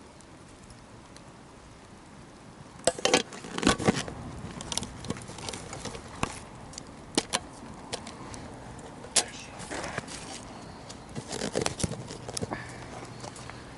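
Metal camp cookware being handled: irregular clinks, knocks and clatters of metal on metal, starting about three seconds in and continuing in clusters.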